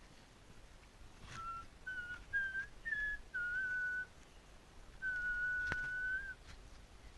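Whistling of a short tune: a run of short notes stepping up in pitch, then one long held note. A sharp click sounds once near the start and once during the long note.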